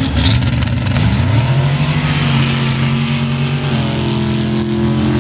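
Sand drag truck engine revving up, with a high whistle rising in pitch in the first second, then running at a steady pitch that fills out with more tones near the end.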